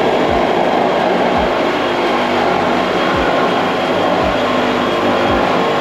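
Loud, steady machine noise with no clear rhythm, and a few short low thumps at uneven gaps.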